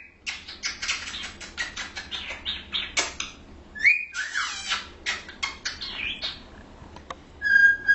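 Pet cockatiel chattering in a quick run of short chirps and squawky warbles, with a couple of rising calls midway and a clear, steady whistle near the end.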